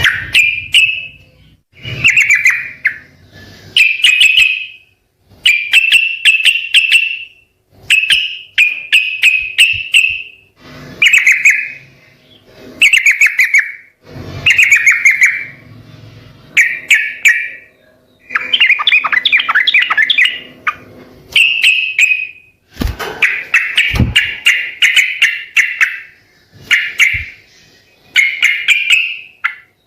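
Yellow-vented bulbul (trucukan) singing: short, bubbly chattering phrases about a second long, repeated every one to two seconds. A couple of low thumps come about three-quarters of the way through.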